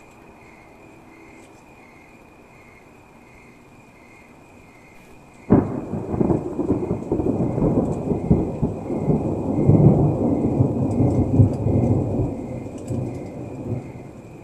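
A loud thunderclap: a sudden sharp crack about five and a half seconds in, followed by several seconds of rumbling that dies away near the end.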